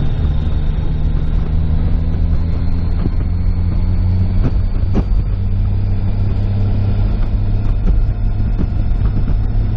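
Car engine and road noise inside a moving car's cabin: a steady low hum, with a few short clicks about halfway through.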